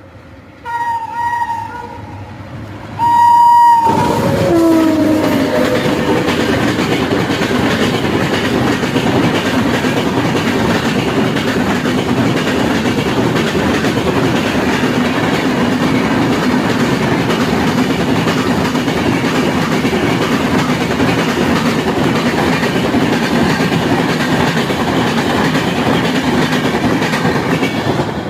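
Indian Railways train horn sounding twice, the second blast ending as the train reaches the microphone and its pitch sliding down as it passes. Then a loud, steady rumble and clatter of the coaches rolling by for the rest of the time.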